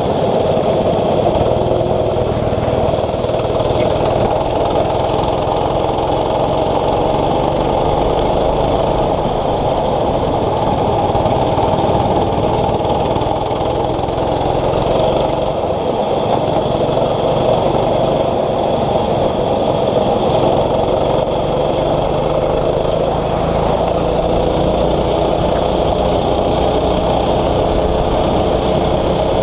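6.5 hp racing kart engine running under load without a break, its pitch rising and falling over and over as the throttle opens and closes.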